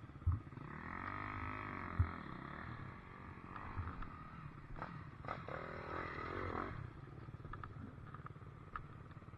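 Dirt bike engine running, revving up and back down twice. There is a sharp thump about a third of a second in and another around two seconds in.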